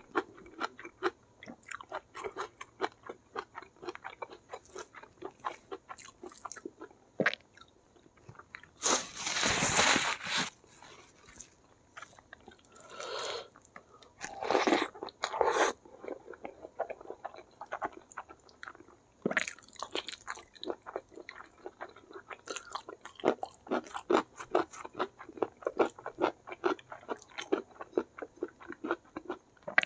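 Close-miked eating sounds of a person chewing mouthfuls of rice and curried food eaten by hand: wet, rapid clicks and crunching bites. A few longer, louder noisy stretches come about a third of the way in and again near the middle.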